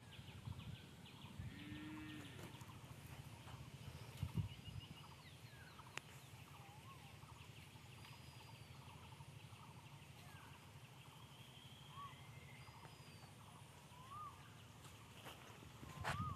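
Faint birdsong in open country: scattered short chirps and little rising-and-falling whistles, over a steady low rumble, with a couple of soft knocks about four seconds in and near the end.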